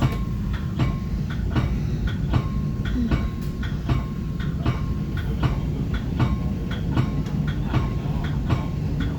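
Metra commuter train running along the track, heard from inside the front of its cab car: a steady low rumble with the wheels clicking over rail joints at an even pace, a little over one click a second.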